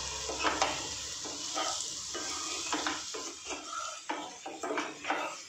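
Baby potatoes and spice masala sizzling in oil in a kadai, stirred with a wooden spatula. A steady sizzle runs under repeated short scraping strokes of the spatula against the pan.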